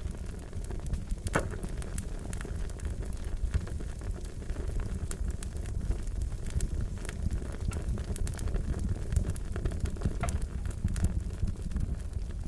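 Wood fire crackling: sharp pops and snaps at irregular intervals, one stronger pop about a second and a half in, over a steady low rush of burning.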